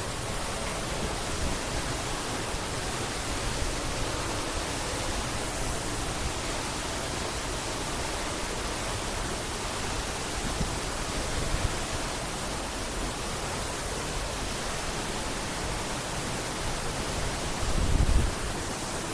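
Waterfall pouring into a pool: a steady, even rushing of falling water. Near the end a brief low thump sits on top of it.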